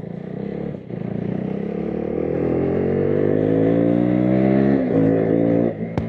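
KTM RC 390 single-cylinder engine and exhaust under hard acceleration, its pitch climbing steadily and growing louder, with a brief break about a second in. Near the end the note drops away and there is a single sharp crack.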